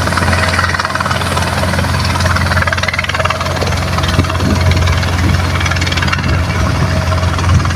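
Helicopter engine and rotor running steadily: a loud low drone with a hiss over it.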